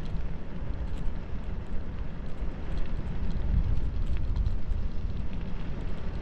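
Wind buffeting the microphone over a steady rumble of bicycle tyres rolling fast downhill on a dirt road, with scattered small clicks and rattles.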